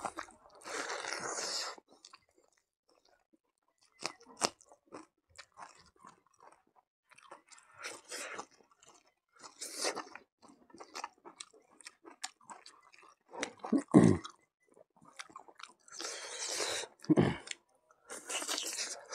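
Close-miked eating by hand of rice and buffalo meat curry: wet chewing and crunching with scattered mouth clicks and a few short hissing bursts. Two low thumps come in the last third.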